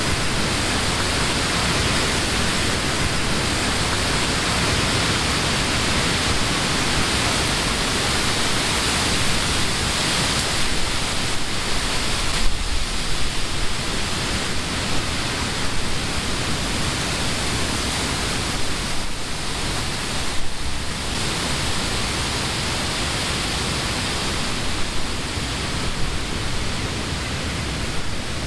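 Summer wind blowing through trees, a steady rush of leaves that eases briefly a couple of times midway.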